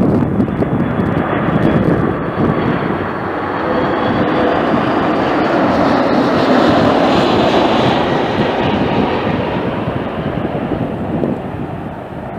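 Jet airliner passing close by, its engine noise swelling to its loudest about seven seconds in, then fading away.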